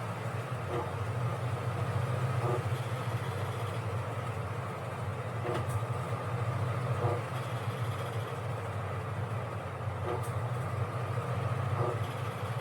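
Washing machine running: a steady low motor hum with a wash of noise and soft knocks at an uneven pace, about one every two seconds.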